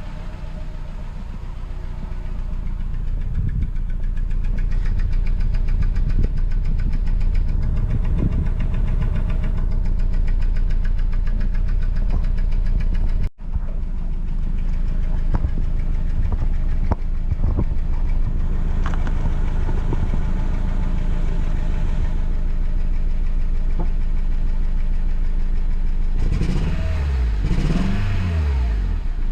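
Van engine idling rough with a misfire and little power, the fault logged as code P0302, which the owner puts down to the ignition coil or spark plugs. Near the end the pitch briefly sweeps down and up.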